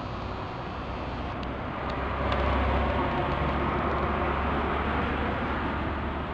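Road traffic: a motor vehicle going past with a low rumble, getting louder about two seconds in and easing off near the end.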